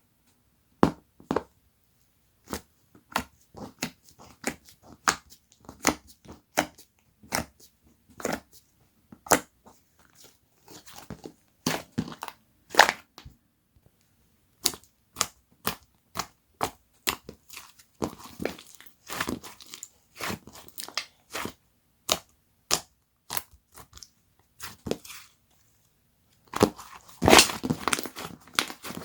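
Soft, fluffy clay slime being squeezed and poked by hand, giving irregular short pops and crackles. Near the end comes a denser burst of crackling.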